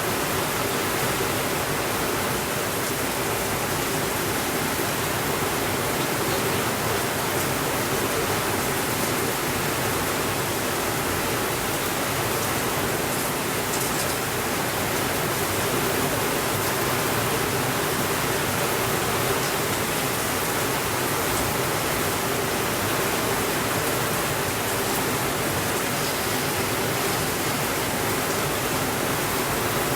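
Steady heavy rain, an even unbroken rushing hiss, with a few faint ticks in the middle.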